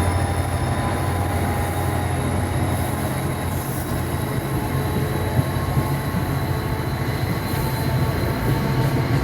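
NJ Transit commuter train's passenger cars rolling past: a continuous rumble of wheels on rail with thin high steady squealing tones, the deep hum easing off after a few seconds.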